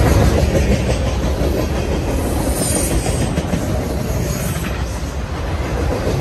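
Freight train passing at close range: steel wheels of boxcars and autorack cars rumbling along the rails and clacking over the joints in a steady, loud stream.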